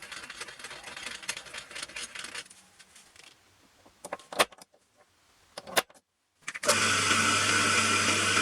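Metal parts rattling and clinking as they are handled, then a few sharp clicks. After a short gap, about six and a half seconds in, the home-built belt sander's washing-machine motor comes on and runs steadily with a low hum and a hiss.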